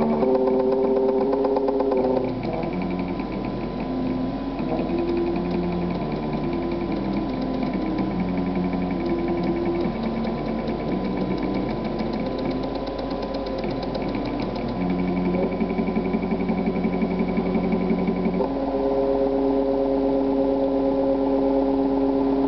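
Stepper motors of a home-built CNC hot-wire foam cutter whining as the axes move. The pitch jumps from one level to another every second or so as the feed speed changes, then holds steady through the last few seconds.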